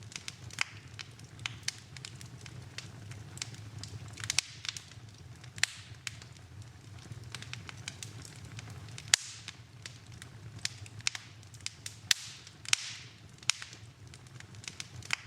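Fireplace fire crackling, with irregular sharp pops and snaps, some trailing a short hiss, over a low steady rumble; the loudest pop comes about nine seconds in.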